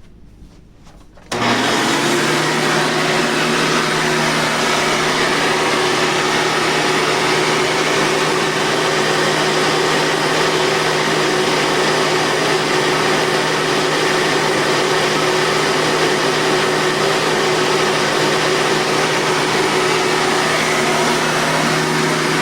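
Hoover Convertible upright vacuum cleaner switched on about a second in, its motor coming straight up to speed and then running steadily: a loud rush of air over a steady low hum.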